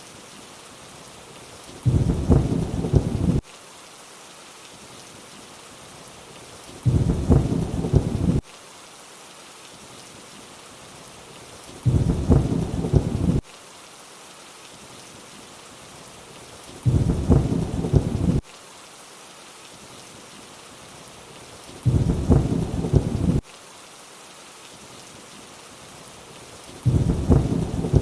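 Steady rainfall hiss with a short rumble of thunder that repeats at a regular pace, about every five seconds. Each rumble lasts about a second and a half and starts and cuts off abruptly, like the same thunder clip looped over the rain.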